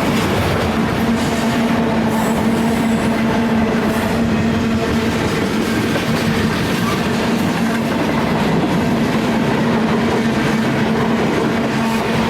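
Freight train rolling past: steady running noise with the clatter of wheels on the rails and a steady hum underneath.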